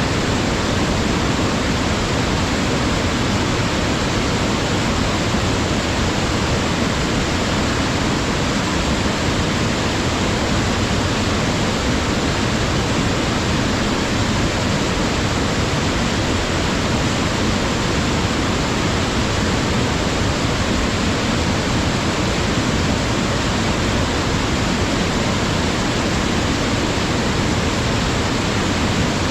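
Waterfall pouring steadily into a gorge stream, a loud, unbroken rush of falling water.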